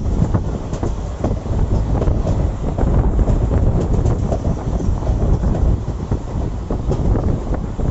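Passenger train running along the track, its wheels clattering and knocking over the rails, with wind buffeting the microphone.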